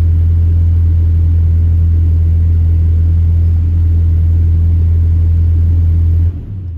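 Ranger's exhaust through a newly fitted Borla muffler, a steady low drone from the engine running at a constant speed. About six seconds in the sound drops off sharply and fades.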